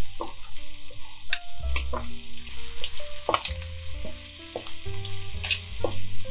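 Shrimp and minced garlic sizzling in butter in a nonstick frying pan, stirred with a wooden spatula, with several short scrapes of the spatula. Light background music plays underneath.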